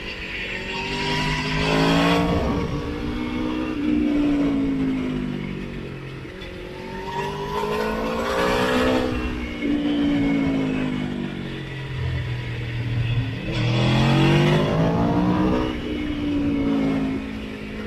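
Motorcycle engine pulling hard and backing off in waves, its pitch climbing and then falling away, three times over. Wind rush swells at each peak.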